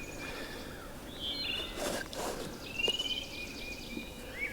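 Songbirds chirping: several short, high calls and trills, with a brief noisy rustle about two seconds in.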